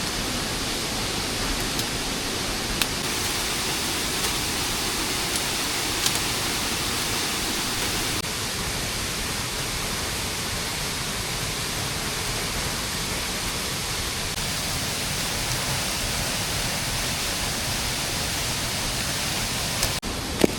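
Steady rain falling in a forest, an even hiss with no break, with a few faint sharp ticks from drops or small knocks.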